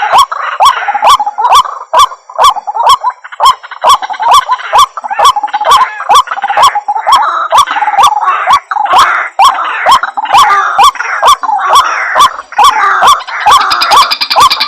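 White-breasted waterhen calling: a fast, even run of croaking "kru-ak" notes, about three a second, with harsher overlapping calls over them.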